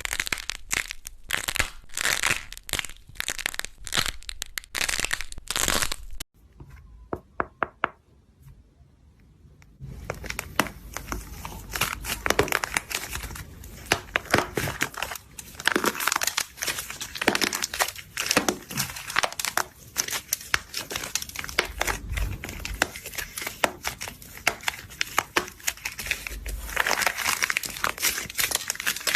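Close-up crackling and crinkling: a rapid, dense run of small pops and crackles. After about six seconds it cuts to a few quieter seconds of scattered pops, and the dense crackling resumes at about ten seconds.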